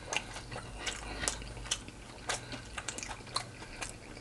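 A person chewing fried chicken close to the microphone: quiet, irregular crunches and wet mouth clicks, a couple a second.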